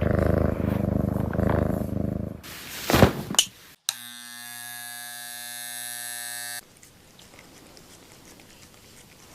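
Cat purring loudly and steadily for about two seconds, then fading. A whoosh follows, a brief silence, then a steady electric buzz for about two and a half seconds that cuts off suddenly, leaving faint ticks.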